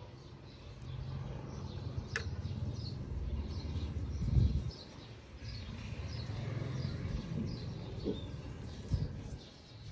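Small birds chirping in the background, short high chirps repeating about twice a second, over a low rumble with a couple of dull thumps and one sharp click.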